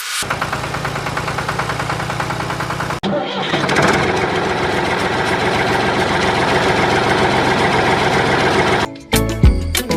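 A motor running with an even knocking pulse of about nine beats a second. About three seconds in it turns louder and busier, then cuts off sharply near the end.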